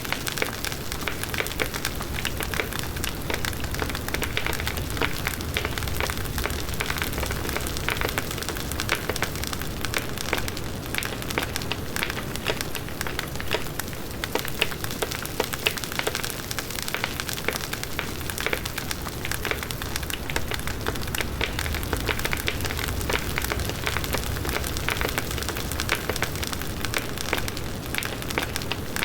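Large wood bonfire burning steadily: dense wood crackling with frequent small pops, over the low rumble of the flames, with no pauses.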